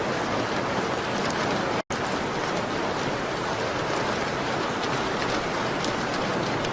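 Steady rain pattering on window glass, an even hiss of drops, with a split-second cut to silence about two seconds in.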